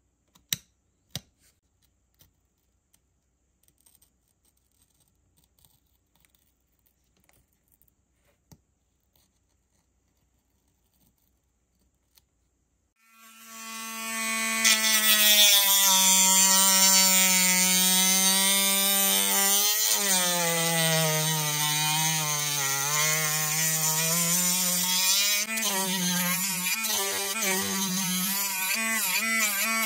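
A few faint clicks and scratches, then, about halfway through, a small cordless rotary tool with a sanding drum starts up and runs with a steady whine. Its pitch sags and wavers while the drum sands the plastic model car body.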